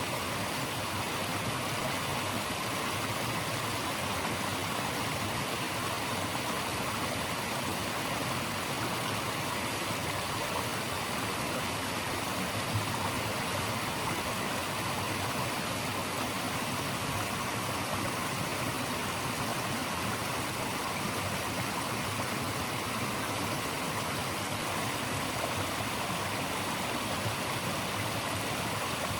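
Running water of a stream rushing steadily, an even unbroken hiss.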